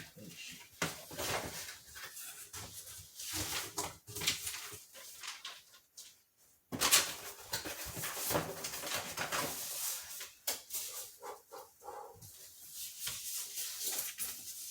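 Packaging being handled and rustled while a box is unpacked: irregular crinkling and rubbing, with a sharp knock about seven seconds in, just after a brief gap.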